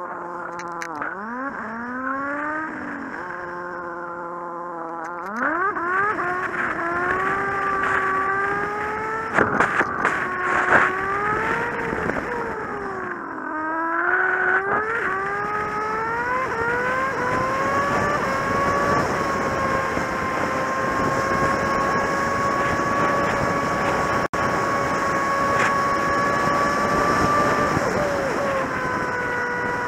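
Kawasaki Z750's inline-four engine under way, revving up and dropping in pitch with each gear change. It eases off about thirteen seconds in, pulls away again, then holds a steady cruise for the last ten seconds or so.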